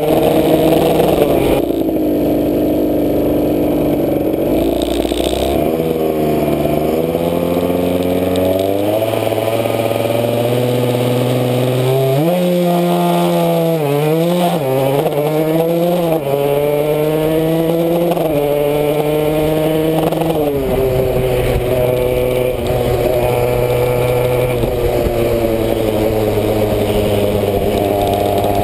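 Aprilia SX 125's single-cylinder engine pulling the bike along, its revs climbing and dropping through the gears, with a quick run of rises and falls about halfway through and a steadier pitch over the last several seconds.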